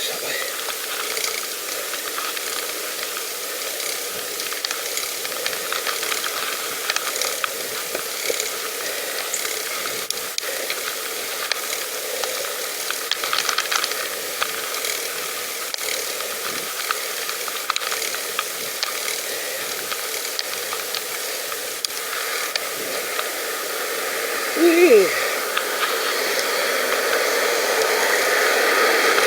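Pedal bicycle in motion: steady ticking and rattling from the freewheel and frame over tyre hiss. There is a short falling squeak about 25 seconds in, and a rushing noise that grows louder near the end.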